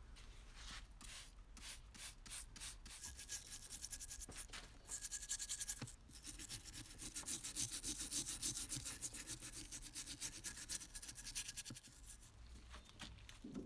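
Hand scrubbing: a brush or abrasive rubbed back and forth against a part. It starts with separate strokes, runs fast and steady from about five seconds in, and stops near the end.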